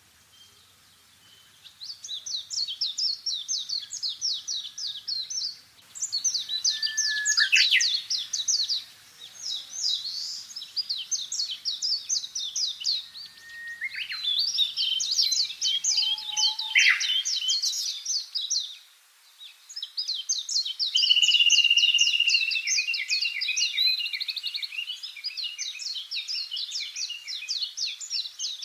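Songbirds singing in long, rapid, trilled phrases of quick repeated chirps, one phrase after another with short pauses between them.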